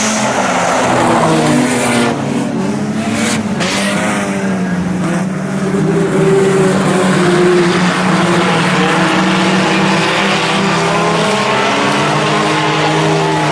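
Several IMCA Sport Compact race cars' four-cylinder engines running hard together. Their pitch rises and falls as cars pass and get back on the throttle.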